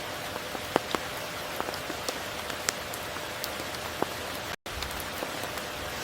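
Steady heavy rain, with many single drops striking close by as sharp ticks over the even hiss. The sound cuts out completely for an instant about three-quarters of the way through.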